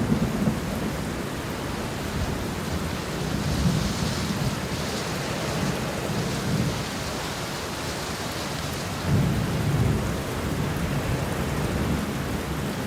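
Steady heavy rain with low, rolling thunder rumbling in the distance, swelling and fading several times; the strongest rumble comes about nine seconds in.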